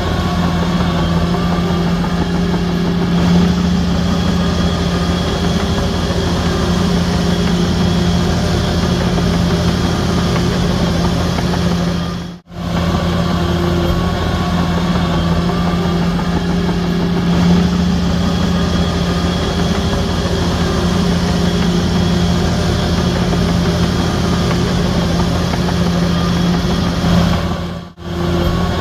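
Diesel engines of heavy earthmoving machinery, a bulldozer and dump trucks, running steadily with a deep hum and slight swells in pitch. The sound drops out briefly twice, about twelve seconds in and near the end.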